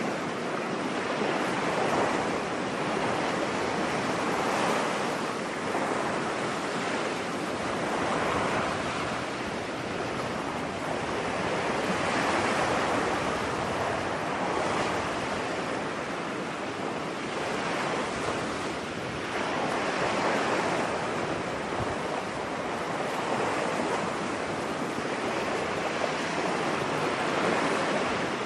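Ocean surf washing onto a beach: a steady rush of waves that swells and ebbs every few seconds.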